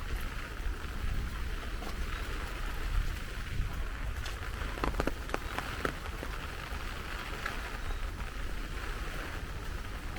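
Heavy rain falling steadily, a constant hiss over a low rumble, with a few sharper drop taps about halfway through.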